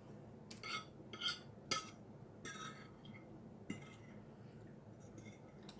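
Cutlery clinking and scraping against a plate, about eight short sharp sounds, most of them in the first three seconds.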